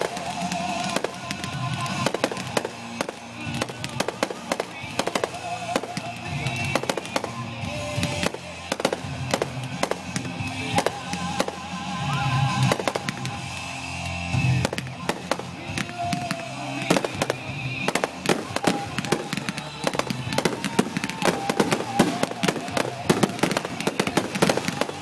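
Consumer 1.4G fireworks going off in a finale: a rapid, irregular string of bangs and crackling bursts that grows denser in the second half.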